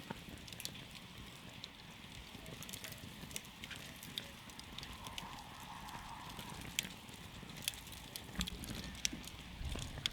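Wood campfire crackling: scattered sharp pops and snaps over a low, steady rumble of burning, with a few louder pops in the second half.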